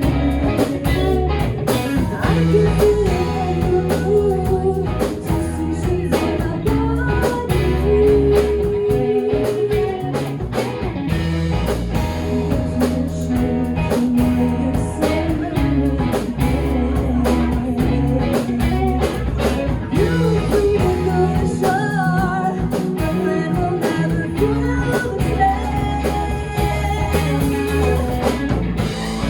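Live band music: guitar, bass and drums playing a bluesy rock song, with singing.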